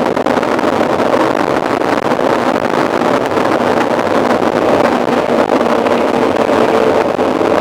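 Steady rush of wind over the microphone of a mountain bike moving at speed, mixed with the bike's rolling noise.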